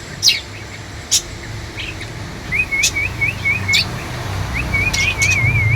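Pet lovebirds chirping: sharp single chirps scattered through, and two runs of quick wavering twittering notes, one in the middle and one near the end.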